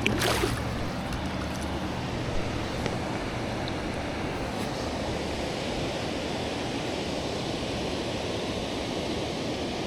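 Steady rushing of river current flowing over rocks, with a brief splash right at the start as a released smallmouth bass goes back into the water.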